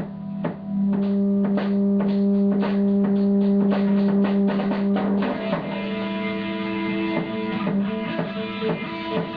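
Live rock jam: an electric guitar through an amplifier holding long sustained notes over a drum kit keeping a steady beat, the held notes changing about halfway through.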